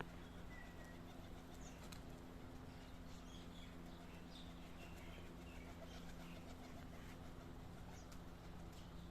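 Faint scattered bird chirps and light clicks over a steady low hum.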